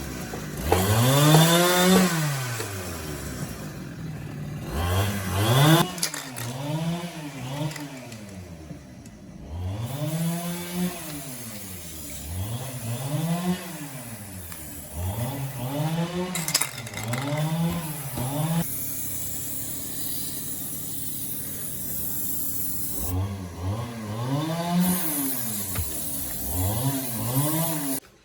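A small motor repeatedly sped up and let back down, its pitch rising and falling every second or two, steadier for a few seconds in the latter half, then cut off suddenly at the end.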